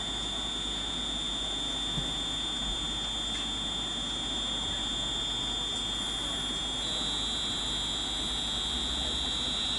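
Steady high-pitched electrical whine from a London Northwestern Railway Class 350 electric multiple unit standing ready to depart, over a low rumble. A second, slightly higher tone joins about seven seconds in.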